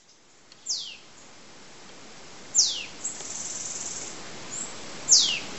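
A bird gives three loud whistles, each sliding down in pitch, about two seconds apart, over a steady hiss of insects. A high, pulsing insect trill runs for about a second between the second and third whistles.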